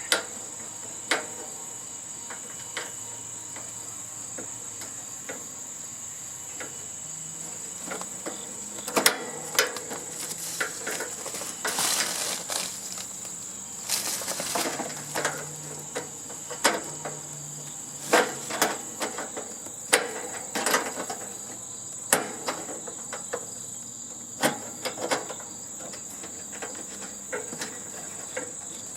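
Crickets trilling steadily and high, with irregular metal clicks, clinks and knocks from hand tools and screws being worked on the sheet-metal housing of a heating and air-conditioning unit, busiest through the middle.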